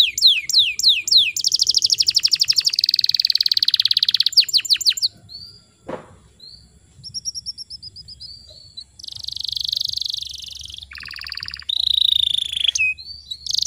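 Domestic canary singing, with fast rolling trills and repeated downward-sweeping notes for the first five seconds. A quieter spell of short chirps follows, then loud buzzy trills from about nine seconds in.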